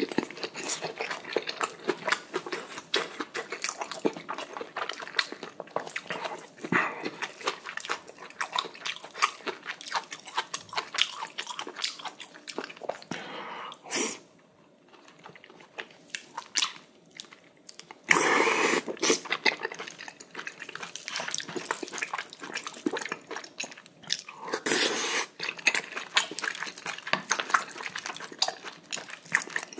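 Close-miked wet chewing and mouth smacking of spicy braised kimchi and whole beef large intestine (daechang), with a quieter stretch about halfway through and louder bursts of chewing after it.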